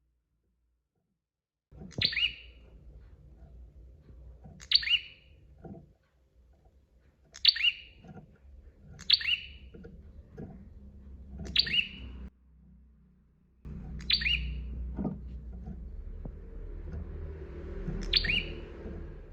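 Prinia (prenjak) calling: short, sharp, loud notes that drop quickly in pitch, repeated about seven times at intervals of two to three seconds over a low hum.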